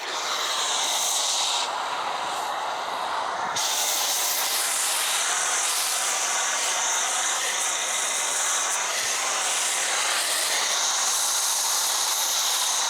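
Foam cannon on a pressure washer spraying soap foam onto a boat hull: a steady, loud hiss that starts abruptly, its tone shifting slightly twice in the first few seconds.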